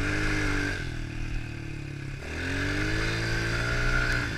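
110cc four-stroke pit bike engine revving up under throttle, easing off about a second in, then revving up again from about two seconds in and dropping off near the end.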